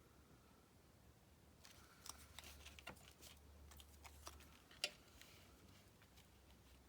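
Near silence with faint desk-work handling noises: a scatter of light clicks and taps between about 2 and 5 seconds in, the sharpest just before 5 seconds, over a low steady hum.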